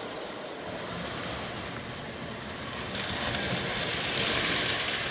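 Lionel O gauge toy train running on three-rail track: steady motor hum and rolling wheel noise, which grows louder and hissier about three seconds in.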